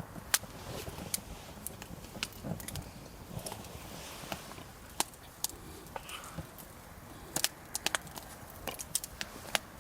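Wood campfire crackling, with irregular sharp pops and snaps of burning wood over a low background hiss.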